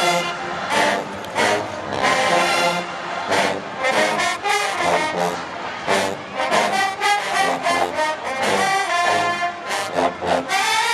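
Marching band playing loudly: a brass section holds and moves through chords over repeated drum hits.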